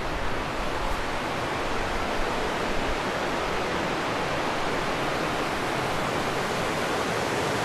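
Fast mountain river rushing in a steady, even wash of water noise.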